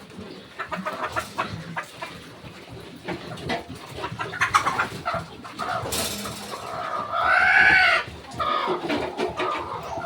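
Chickens clucking in short scattered calls, with one loud, drawn-out call about seven seconds in.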